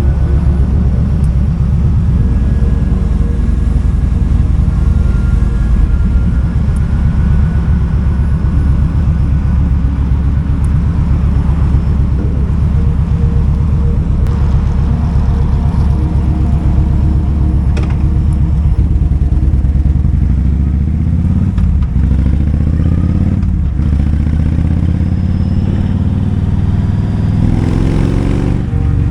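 Kawasaki Vulcan 2000's 2,053 cc V-twin engine running under way, a steady low sound that holds for most of the stretch. Its pitch rises near the end as the bike accelerates.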